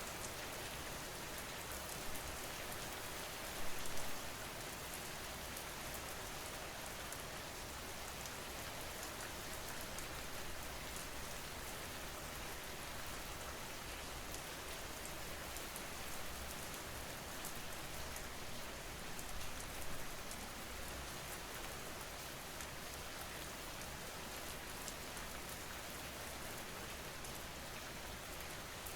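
Steady rain, an even hiss with scattered small drop ticks. There are brief louder swells about four seconds in and again about twenty seconds in.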